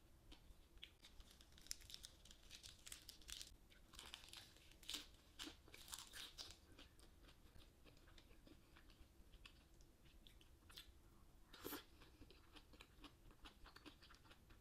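Quiet close-up chewing of a lettuce wrap with beef tongue: crisp crunching of fresh lettuce and small wet mouth crackles, with one louder click about two-thirds through.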